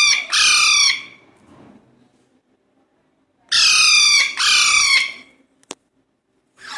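Young Alexandrine parakeet chicks giving loud, harsh squawks, each sliding slightly down in pitch. They come in two pairs about three seconds apart, with a sharp click shortly after the second pair and another squawk starting at the very end.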